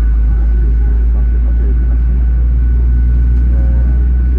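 Steady low rumble of a Boeing 737-800 cabin during pushback, with a faint thin whine running through it and muffled voices of passengers.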